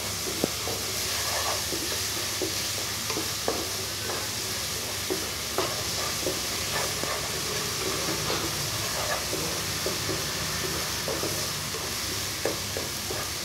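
Ground shallot, garlic, ginger and dried-chilli masala with turmeric frying in oil in a nonstick kadai, sizzling steadily while a wooden spatula scrapes and taps the pan in frequent short strokes. It is the stage of frying the paste until its raw smell is gone.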